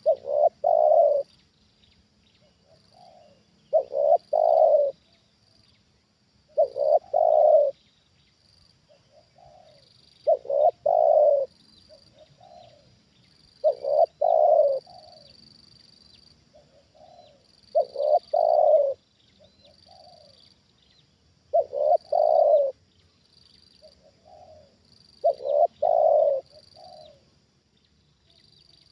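Spotted dove cooing: a repeated phrase of a soft lead-in note and a loud doubled coo, given about every three and a half seconds, eight times over.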